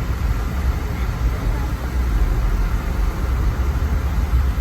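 Car-audio subwoofers playing bass-heavy music, loud and steady, heard mostly as a deep rumble with little of the upper song coming through.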